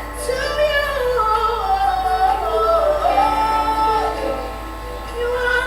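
Gospel worship music: a woman's voice singing a slow melody with long sliding and held notes, over steady instrumental backing.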